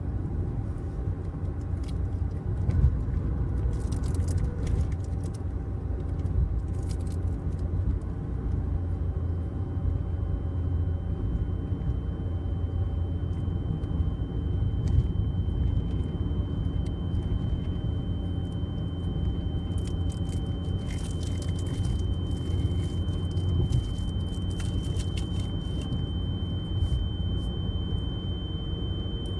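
Low, steady rumble of a car driving. A single steady high-pitched tone, like ear ringing, joins about a third of the way in and holds.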